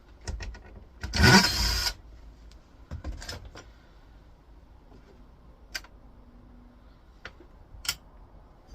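Taking a small screw out of a computer monitor's metal stand: a short, loud rasping burst about a second in, then scattered clicks and taps of the tool and metal parts, two of them sharp, near the middle and near the end.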